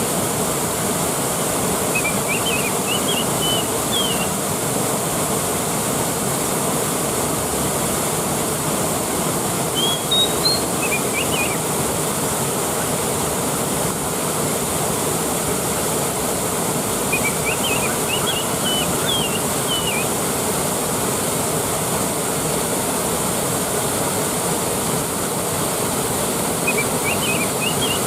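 Waterfall rushing steadily. Short high chirping phrases come in four times over it.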